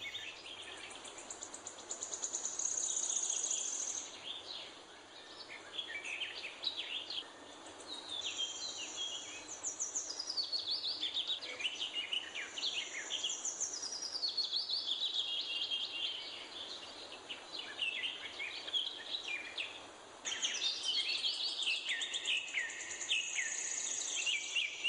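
Small birds chirping outdoors in quick runs of high notes and trills. A high, steady whirring comes and goes several times over faint background hiss.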